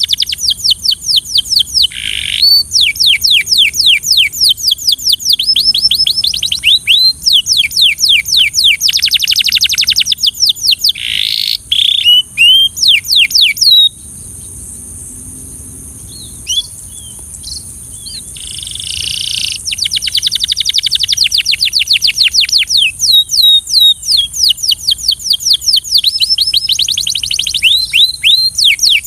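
Belgian canary singing: rapid trills of repeated down-sweeping notes strung into long rolling phrases. About halfway through, the song breaks off for a few seconds with only a few scattered notes before the trills resume. A steady faint high hiss runs behind it.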